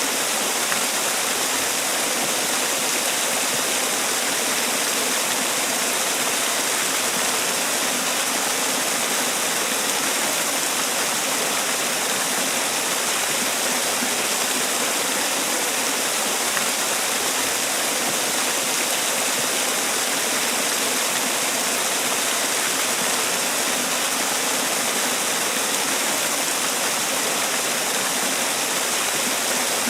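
Man-made waterfall: water falling and splashing in a steady, unbroken rush, mostly hiss with little low rumble.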